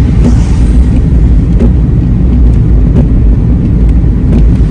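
Car cabin road noise on a wet road: a loud, steady low rumble of engine and tyres, with the windscreen wipers sweeping and giving a faint knock at each stroke, about one every second and a half.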